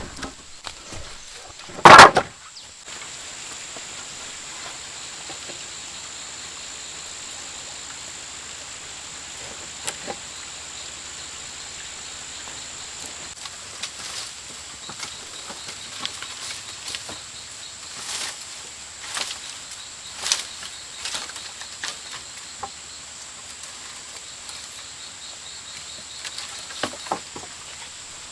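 Rainforest ambience: a steady high insect drone, with a pulsing insect trill joining about halfway through, and scattered light knocks and rustles. About two seconds in there is one loud, sharp impact.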